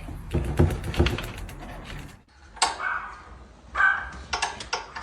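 A dog making short vocal sounds, three separate bursts in the second half, after a stretch of clicky, knocking sounds.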